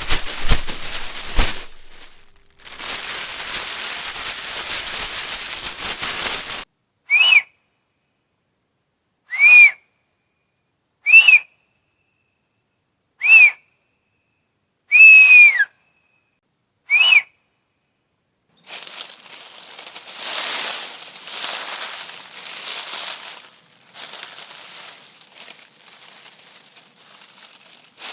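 Six short, high whistle-like squeaks, each rising then falling in pitch, about two seconds apart; the fifth is longer and drops away at its end. Before and after them, a rustling, crinkling noise.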